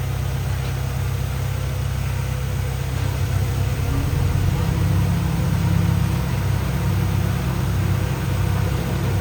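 Diesel engine of heavy earthmoving machinery running with a steady low drone, working a little harder about halfway through.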